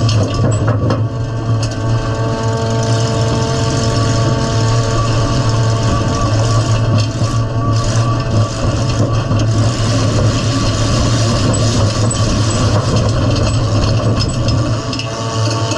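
Demolition derby car's engine running steadily and loud, heard from inside the stripped-out cabin.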